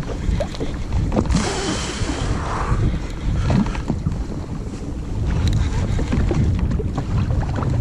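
Wind buffeting the camera microphone on a jet ski at sea, a steady low rumble with a burst of hiss about a second in that lasts under two seconds.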